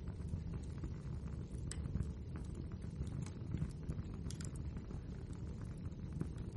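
Wood fire burning in a fireplace: a steady low roar of flames with frequent irregular crackles and pops from the burning logs, a few sharper snaps standing out.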